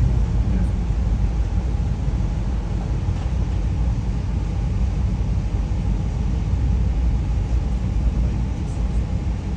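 Steady low rumble of a moving passenger train, heard from inside a Skyline dome car of VIA Rail's Canadian.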